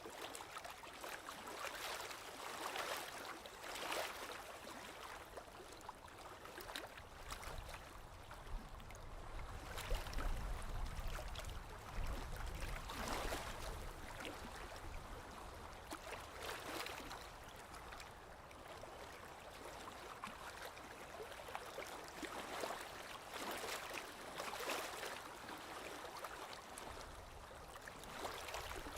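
Small lake waves lapping on the shore: irregular soft splashes that swell and fade every second or two. A low rumble runs under them around the middle.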